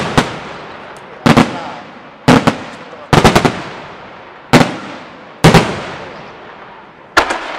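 Aerial firework shells bursting overhead: about seven loud bangs, roughly one a second. Each is a quick double or triple crack followed by a rolling echo that fades before the next.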